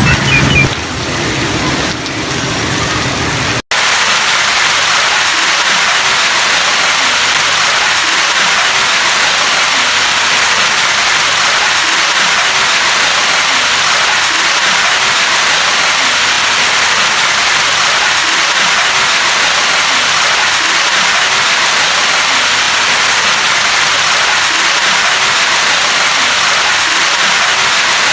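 Steady heavy rain, an even, unbroken hiss that starts abruptly after a brief dropout about four seconds in.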